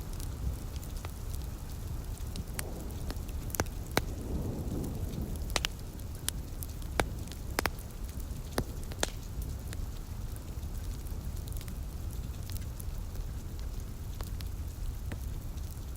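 Wood fire crackling with sharp separate pops, most of them bunched a few seconds in, over a steady wash of rain and a constant low rumble.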